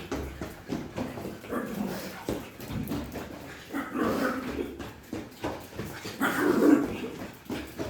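A pug making playful dog noises: short whimpers, yips and grunts in quick irregular bursts, louder in two spells around the middle and again late on.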